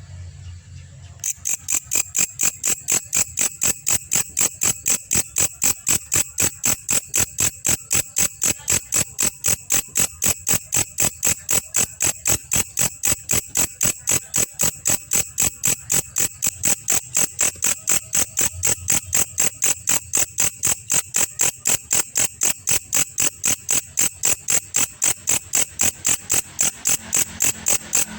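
Belalang kecek katydid calling: a steady, even train of sharp chirps, about three a second, beginning about a second in.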